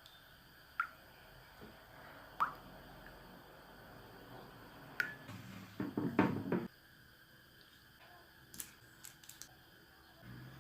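Small objects being handled: a few separate sharp taps, each with a brief ring, then a short burst of clattering about six seconds in, followed by several light clicks near the end.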